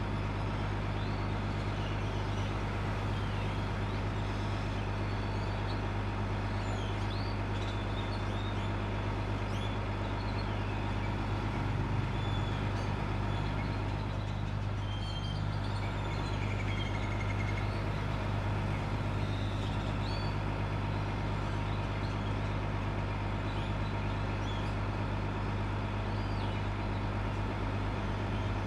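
A bus engine running steadily with a constant low drone, with small birds chirping repeatedly over it and street traffic in the background.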